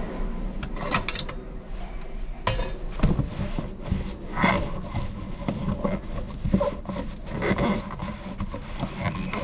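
Irregular work noises: scattered knocks and clatter with stretches of scraping and rubbing, the sound of tools and parts being handled.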